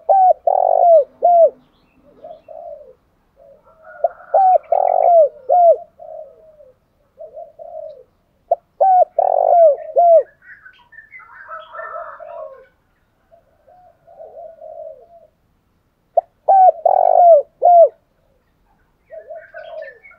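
Spotted dove cooing: loud phrases of three or four coos come back every four to eight seconds, with softer, lower coos between them.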